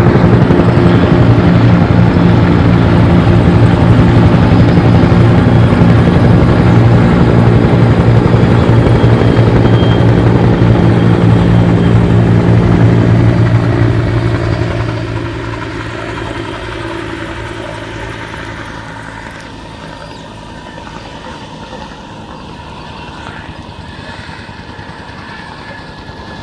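Helicopter flying past with a loud, steady rotor chop that fades away over several seconds about halfway through, leaving a distant hum.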